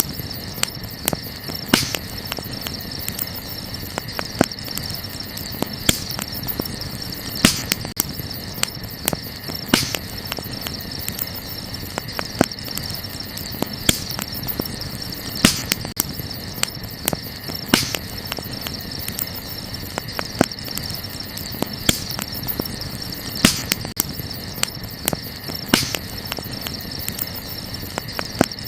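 Wood fire crackling, with a sharp louder pop every couple of seconds among many smaller crackles, over crickets chirring steadily.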